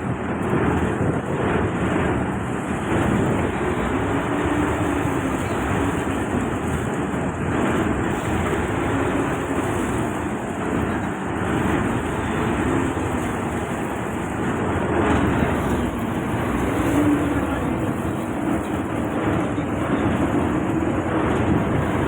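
Boat engine running under way, its pitch rising and falling gently every few seconds, over a steady rushing noise of water and wind.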